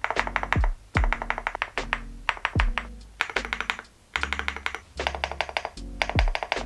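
Fast typing on a Leobog custom mechanical keyboard: dense runs of rounded key clacks, the so-called pebble sound, in bursts with short pauses, over a lofi beat with a deep kick drum.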